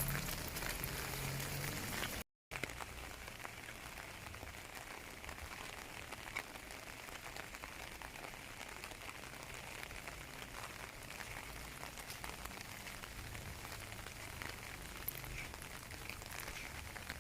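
Steady rain falling, with the dense patter of drops striking surfaces. The sound cuts out completely for a moment about two seconds in, then continues a little quieter.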